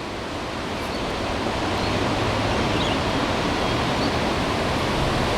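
Strong gusty wind rushing through trees, a steady rush that builds over the first couple of seconds and then holds.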